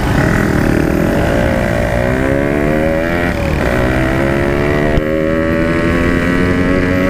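Two-stroke Yamaha RX King motorcycle engine pulling away and accelerating, its pitch climbing, dropping at a gear change about three and a half seconds in, then climbing again.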